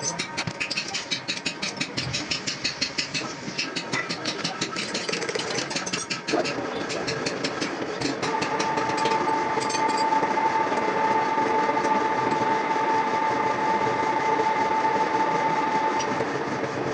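A machine running with rapid, regular ticking, then from about eight seconds in a steady high whine.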